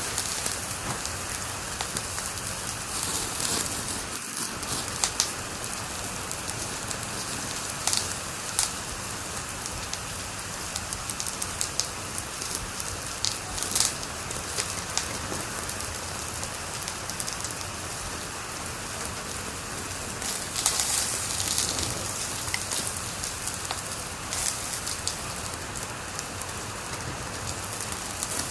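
Wood fire crackling in a fireplace: a steady hiss with constant small snaps and a few louder pops, and a busier run of crackles about two-thirds of the way through.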